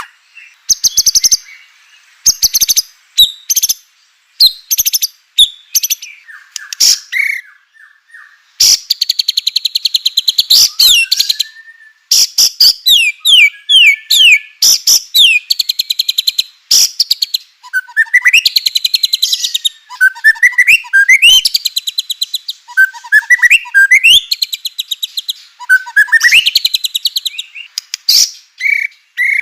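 White-rumped shama (murai batu) singing in loud, varied phrases. Fast rattling 'kretekan' runs of clicks alternate with clear whistled notes and sliding up-and-down glides, with short silent gaps between phrases.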